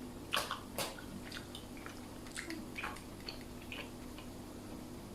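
Faint wet mouth sounds of someone chewing a rubbery, mozzarella-like cheese: scattered soft smacks and clicks, the two loudest about half a second and a second in.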